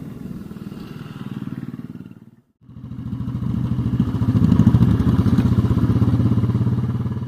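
Motorcycle engine running with a steady, even pulse. It cuts out abruptly about two and a half seconds in and comes straight back louder.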